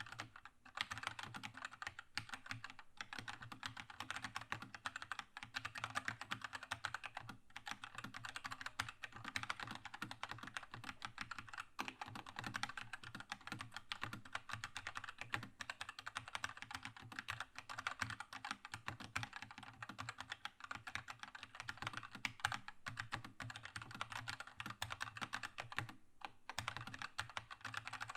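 Continuous fast typing on a Keychron K2 mechanical keyboard with linear red switches: a dense patter of keystrokes, with a few brief pauses.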